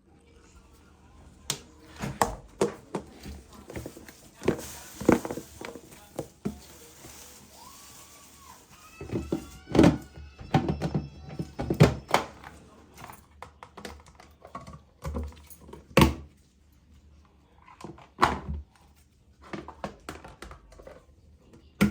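Irregular knocks and thunks of objects being handled and set down in a small room, a few loud ones about ten, twelve and sixteen seconds in.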